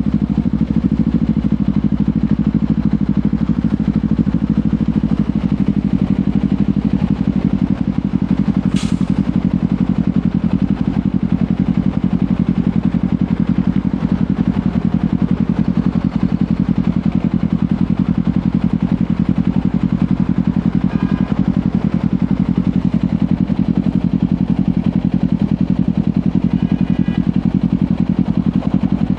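Kawasaki Ninja 500's parallel-twin engine running through a LeoVince GP Corsa Evo exhaust at a steady, unchanging engine speed, with no revving. A brief sharp high chirp about nine seconds in.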